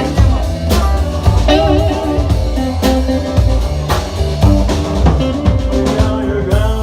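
Live rock band playing an instrumental passage with drum kit and bass under a lead melody that wavers in pitch.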